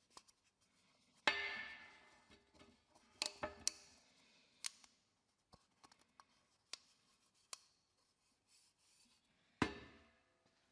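Small parts being handled during an oil filter change: scattered sharp clicks and a few short scraping, clattering noises of the oil filter cap, its gasket and tools being worked by hand.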